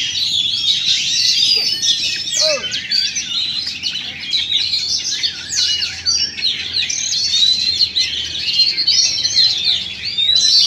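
Many caged oriental magpie-robins singing at once: a loud, dense chorus of fast overlapping whistles and trills with no pause.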